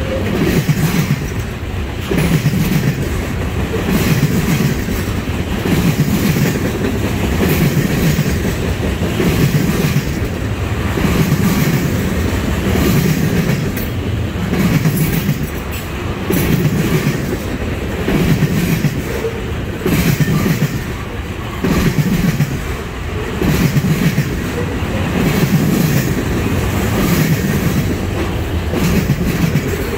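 Freight cars loaded with trash containers rolling past, steel wheels clicking over the rail joints in a regular beat about every one and a half seconds, over a steady low rumble.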